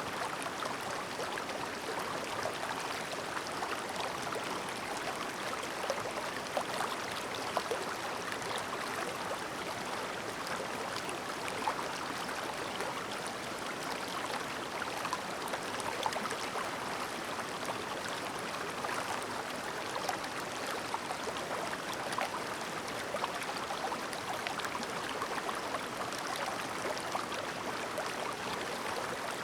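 A clear, shallow mountain stream babbling over stones: a steady rush of water with many small splashes and gurgles.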